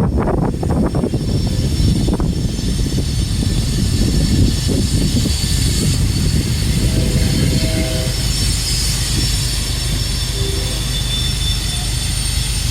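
Freight train cars rolling past close by: a steady, loud rumble of wheels on rail with thin, high-pitched wheel squeal held over it, and some lower squealing tones joining about seven seconds in.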